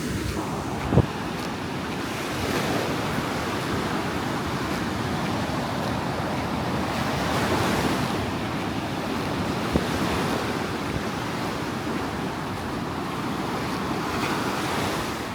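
Ocean surf breaking and washing up the shore in a continuous rush that swells and ebbs, with wind buffeting the microphone. Two brief low thumps, about a second in and near ten seconds in.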